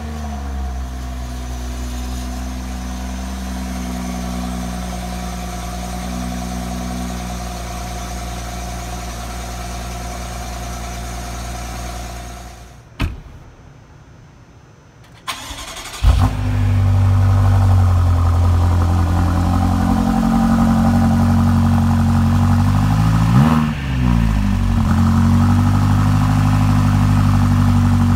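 Two BMW X6 SUV exhausts, the regular X6 and the X6M, each started and idling. The first engine catches at the start, idles steadily and shuts off about 12 seconds in. About 16 seconds in a second engine starts with a sharp flare and idles deeper and louder, with one quick blip of the throttle about 23 seconds in.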